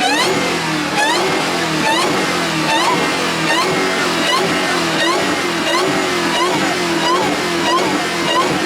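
A car engine revving, with a short rising chirp repeating about twice a second.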